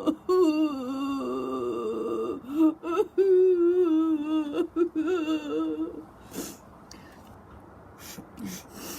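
Women's voices in performed, comic crying: drawn-out wailing sobs whose pitch wobbles up and down, breaking off about six seconds in into quieter short breathy sobs and gasps.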